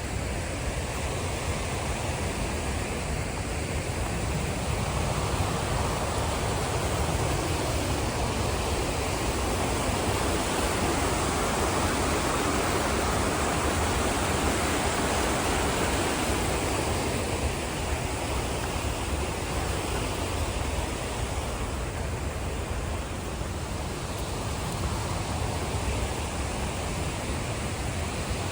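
A large waterfall in heavy flow: a steady, loud rush of falling water, swelling a little around the middle.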